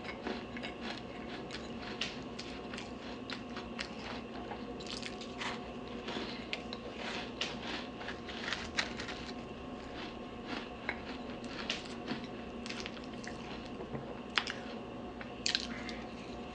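Close-mic chewing of a crunchy Chips Ahoy cookie with Hershey's chocolate: many small sharp crunches and crackles, with wetter chewing between them.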